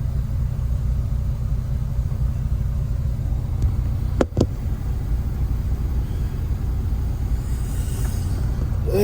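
Semi truck's diesel engine idling with a steady low rumble, heard from inside the cab. Two sharp clicks come close together about four seconds in.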